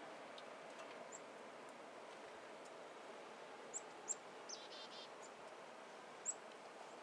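Faint outdoor ambience, a steady soft hiss, with a few short high bird chirps scattered through it and a brief chirping trill about halfway.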